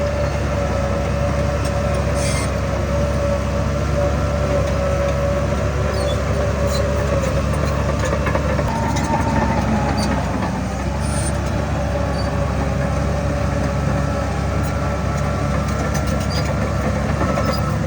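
Heavy diesel earthmoving machinery running steadily, with a constant whine over a low engine drone and a few faint clicks.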